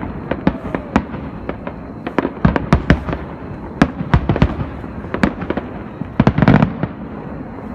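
Fireworks going off: a stream of bangs and pops at irregular intervals, with a quick run of crackling pops about six and a half seconds in.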